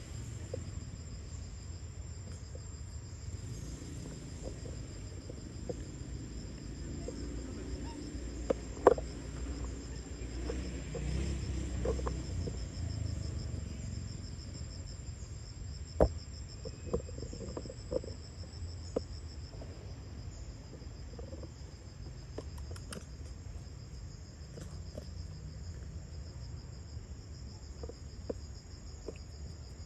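Steady high-pitched chirring of insects such as crickets over a low rumble, broken by a few sharp clicks or knocks, two of them louder about nine and sixteen seconds in.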